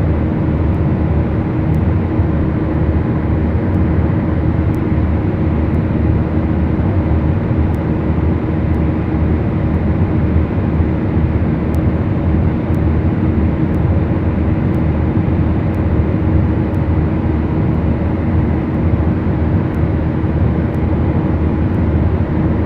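Beechcraft Duchess light twin heard from inside the cabin: its two Lycoming four-cylinder piston engines and propellers run at constant power, a steady unchanging drone with a low hum through it.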